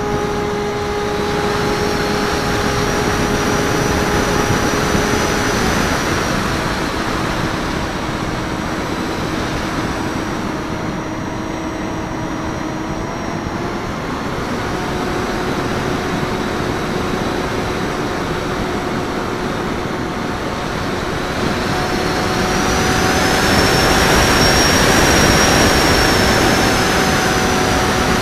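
Electric motor and propeller of a Raptor FPV RC foam plane running in flight: a steady hum that steps to a new pitch a few times as the throttle changes, under wind rushing over the wingtip-mounted microphone, which grows louder a few seconds before the end.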